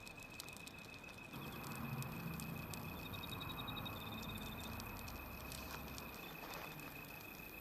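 Wood fire burning, crackling with scattered small pops over a soft rush. A faint steady high tone runs throughout, and a short rapid high-pitched trill comes in around the middle.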